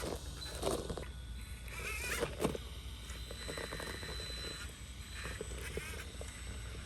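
Small RC rock crawler working slowly over rock: its electric motor and gearing whine in a few short spurts, about a second in and again around two and a half seconds, with tyres scraping and grit pattering on the stone.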